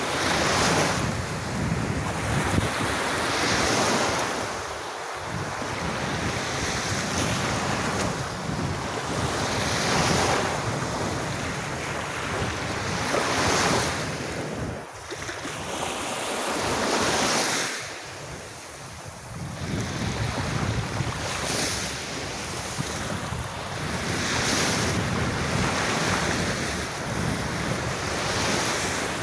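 Small sea waves breaking and washing up on the shore, swelling every three to four seconds, with wind buffeting the microphone.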